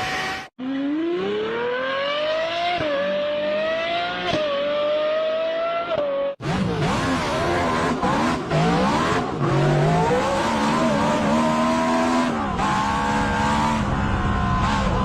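Exhaust sound of high-performance multi-cylinder V engines in separate recordings cut together. The first engine accelerates hard, its pitch climbing and dropping back twice at gear shifts. After an abrupt cut about six seconds in, a second engine accelerates through several shifts with a dense, many-layered note.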